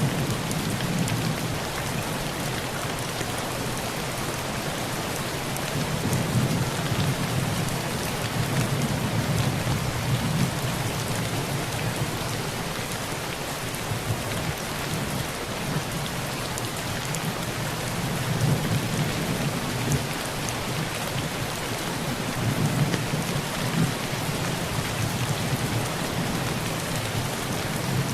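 Heavy rain on a tin roof, a steady dense patter, with a low rumble of thunder under it that swells and fades several times.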